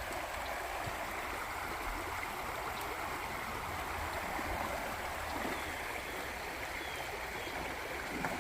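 Creek water rushing steadily over rocks in a shallow stream.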